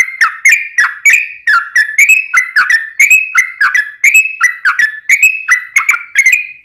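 Sooty-headed bulbul (trucuk) singing a long, unbroken string of short whistled notes, about four a second, without a pause.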